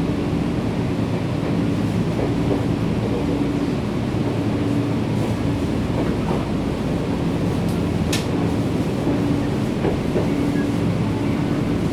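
Nankai 7100-series electric train running on the rails, heard from inside the carriage: a steady wheel-on-rail rumble with a faint on-and-off hum and one short sharp click about eight seconds in.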